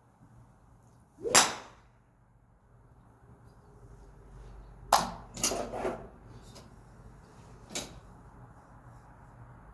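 Golf clubs striking balls: a sharp crack about a second in, another about five seconds in followed by a short rush of noise, and a fainter strike near the end.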